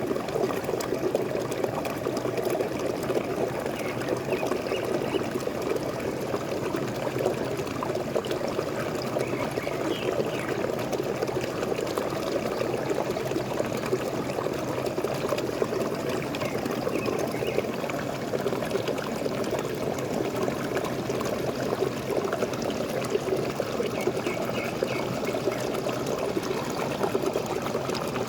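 Small waterfall splashing steadily, with a few faint bird calls now and then.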